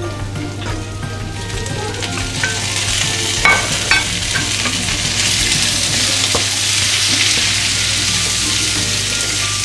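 Galangal, bruised lemongrass, tomato and pineapple sizzling in hot oil in a frying pan as they are tipped in and stirred with a wooden spatula. Two sharp knocks come about three and a half and four seconds in, and the sizzle grows louder in the second half.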